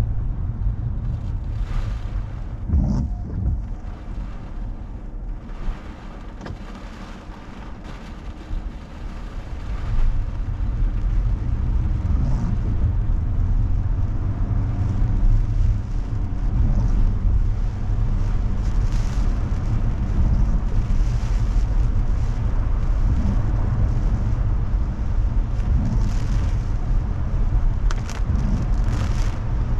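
A car driving in typhoon rain and wind: steady low road and engine rumble with rain and gusts hitting the body, louder from about ten seconds in.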